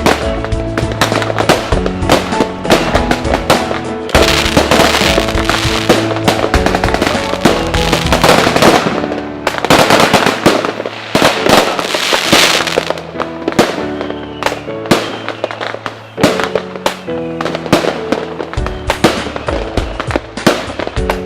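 Fireworks going off: rapid bangs and crackles, with dense crackling bursts about four seconds in and again from about nine to thirteen seconds. Music plays along throughout.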